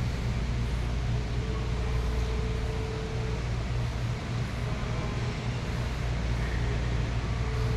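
Steady low hum under an even background noise, with a faint held tone that comes in briefly about a second and a half in.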